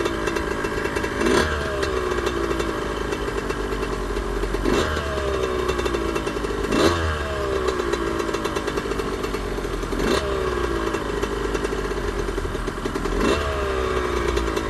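Suzuki RM125's single-cylinder two-stroke engine running under way, its note jumping up with a quick blip of throttle about every two to three seconds and then sagging slowly back down.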